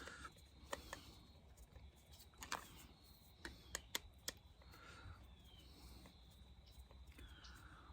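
Faint, scattered small clicks and ticks of hands taking apart a 30 amp shore power plug's housing, in near silence.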